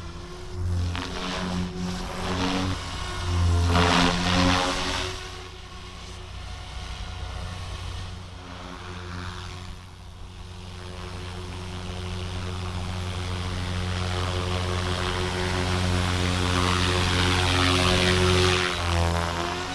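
GooSky RS4 400-size electric RC helicopter flying aerobatics, its direct-drive rotors whirring at a steady head speed. The sound swells and fades as the helicopter moves, loudest about four seconds in and again near the end, and slides in pitch as it passes.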